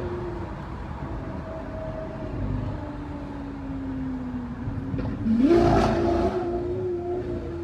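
Lamborghini engine idling, its pitch sinking slowly, then revved once sharply about five seconds in, the loudest moment, before settling back to a steady idle.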